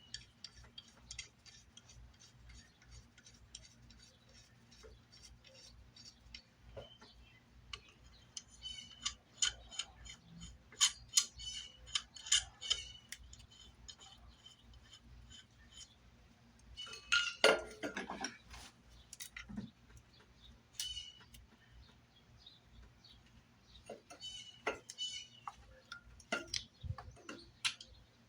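Clicks and clatter of hand tools and car interior parts being worked loose during disassembly, over a steady fast ticking. The loudest rattle comes about two thirds of the way through.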